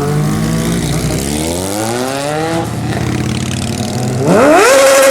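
Sport motorcycle engines accelerating hard, the pitch climbing twice as they pull through the revs. Near the end a louder bike revs sharply up and holds a high, steady pitch.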